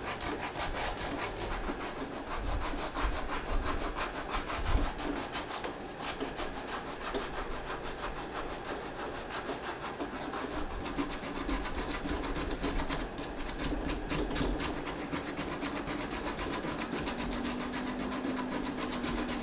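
Suede eraser rubbed in quick, repeated back-and-forth strokes over a sneaker's suede upper to soften the nap.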